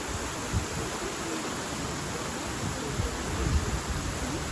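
Steady rushing of a waterfall, with low rumbling bumps underneath.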